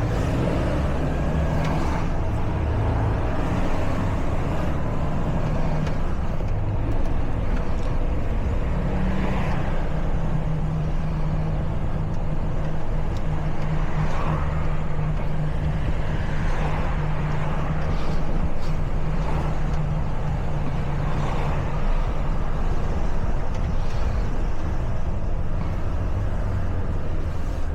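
Truck's diesel engine running on the road with tyre and traffic noise. Its low note shifts in pitch over the first several seconds, then holds steady for a long stretch.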